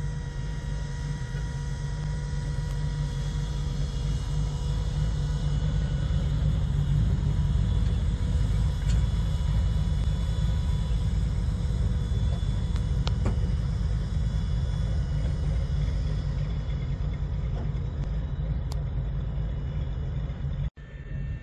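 Red hot-rod roadster's engine rumbling as it drives slowly past, loudest about midway and easing off as it pulls away. The sound breaks off suddenly near the end.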